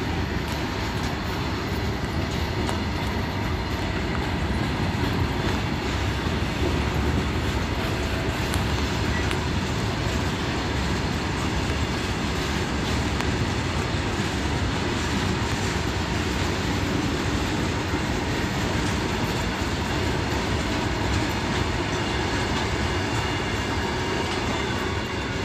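Indian Railways goods train of covered wagons rolling past, a steady rumble and rattle of steel wheels on rail with clicks over the rail joints. The tail of the train goes by near the end.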